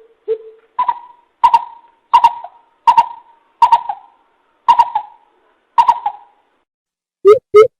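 Coucal (bìm bịp) hooting: a series of deep hoots, one low note and then a run of higher notes about every three quarters of a second that stops about six seconds in. Near the end a faster run of lower hoots, about three a second, begins.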